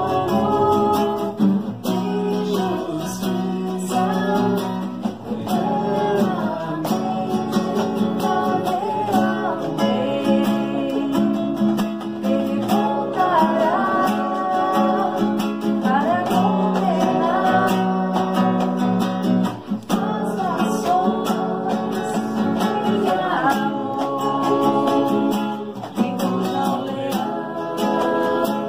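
Acoustic guitar strummed steadily under a sung melody: a song with guitar accompaniment.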